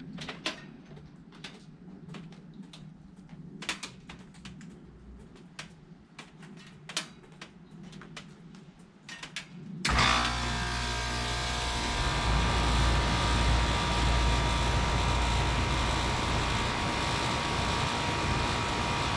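Lennox Merit 10ACC 3.5-ton air conditioner condensing unit starting up: after faint scattered clicks, the compressor and condenser fan come on suddenly about ten seconds in and run steadily and loudly.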